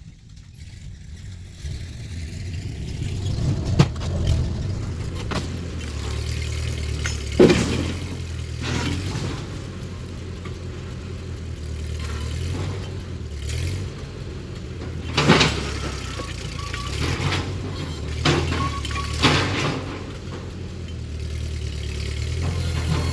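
An engine running steadily at low speed, its level rising and falling, with several loud clunks and knocks spaced a few seconds apart.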